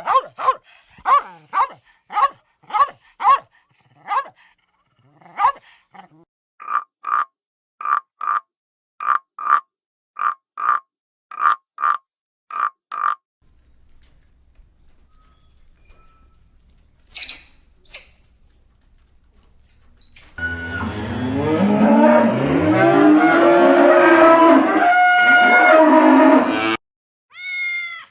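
Animal calls: a long run of short, evenly spaced calls, about two a second, then a few faint high chirps. After that comes a loud stretch of many overlapping pitched calls that stops suddenly near the end.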